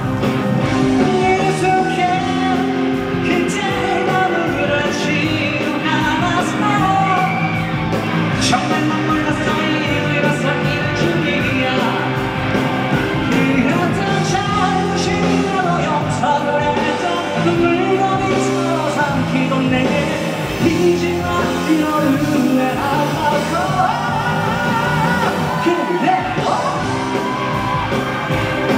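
Live pop music with a singing voice and band accompaniment, echoing in a large hall.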